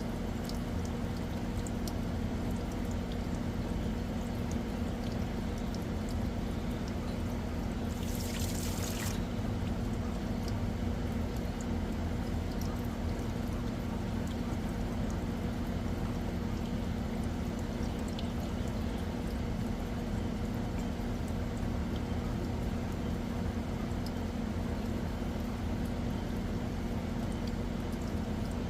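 Water pouring and trickling steadily over a constant low machine hum, with a brief hiss about eight seconds in.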